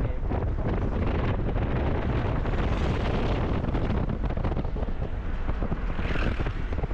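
Wind buffeting the microphone over steady road noise from a moving car.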